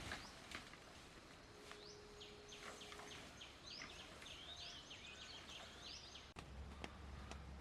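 Faint bird chirping: a quick run of short, high, falling chirps in the middle stretch.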